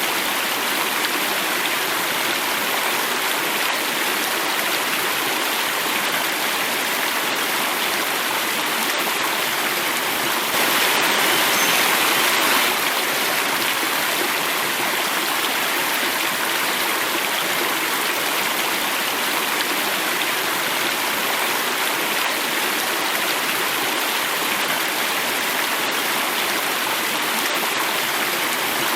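Water running and falling in a small cascade: a steady, unbroken rush that swells a little louder for a couple of seconds partway through.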